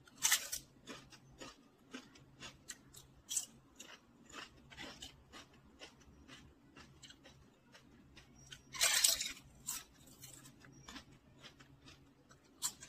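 Close-miked crunching and chewing of crisp fried snacks: many sharp crackly bites, loudest just after the start and again about nine seconds in, with quieter crunches between.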